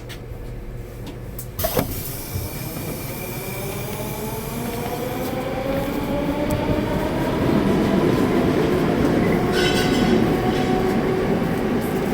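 Metro train pulling away: the traction motors whine in several tones that rise steadily in pitch as it gathers speed, over a growing rumble of wheels on rail. A single clunk comes just before the whine starts.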